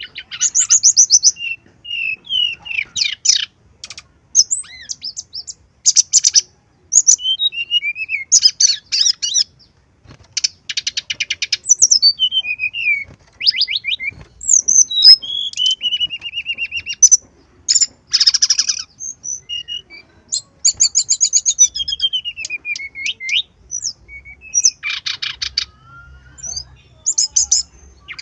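Brown-chested jungle flycatcher singing a long, varied song, packed with mimicked phrases of other birds. Rapid rattling trills alternate with clear slurred whistles, several of which glide downward.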